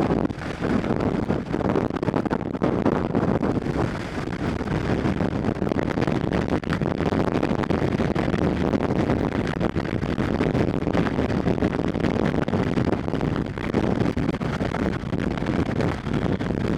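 Strong wind gusting and buffeting the microphone in a dense, rushing roar.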